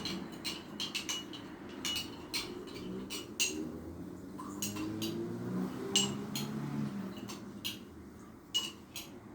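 A spoon stirring lime juice and coarse sea salt, clinking repeatedly and irregularly against the side of the container as the salt is worked to dissolve.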